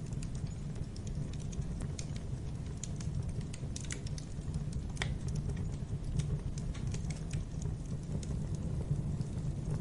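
Fire burning in a fireplace, crackling with irregular sharp pops over a steady low rumble of the flames; one louder pop about five seconds in.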